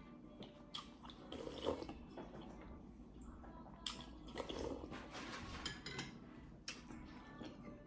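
Faint, close-up eating sounds: wet chewing and mouth smacks of someone eating a momo, with scattered light clicks.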